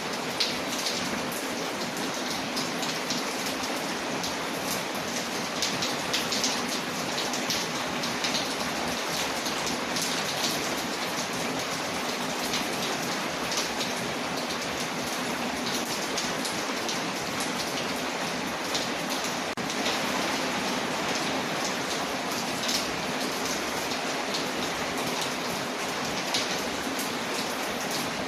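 Layered ambience of steady rain on a window with a crackling fireplace: an even hiss of rain with many small sharp ticks scattered throughout.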